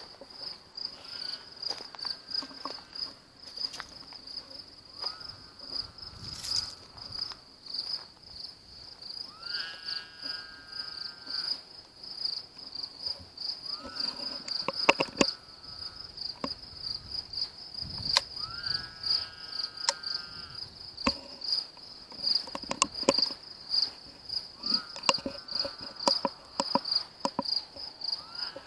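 Crickets chirping steadily, with a short pitched animal call, about a second long and rising at its start, repeating every four to six seconds. The calls are the weird noises that the man takes for a lynx. Scattered clicks and knocks sound close by.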